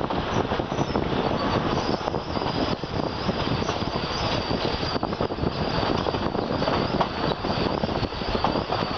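A train running along the track, heard from a carriage window as it gathers speed out of a station: steady noise of wheels on rails with a fine rattle, and a faint high steady whine over it.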